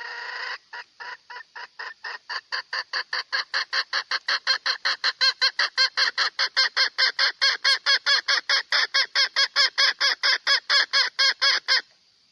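Red junglefowl hen calling in a long run of short, clucking notes that start slowly, then speed up to about four or five a second and grow louder, stopping shortly before the end.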